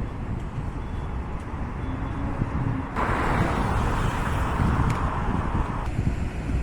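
Road traffic on a city street with a constant low rumble. A steady hiss starts abruptly about three seconds in and cuts off just as suddenly about three seconds later.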